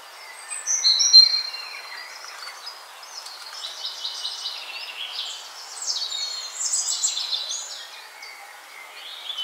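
Songbirds chirping and whistling: many short, high calls and a few held whistled notes overlap over a faint steady hiss, loudest about a second in.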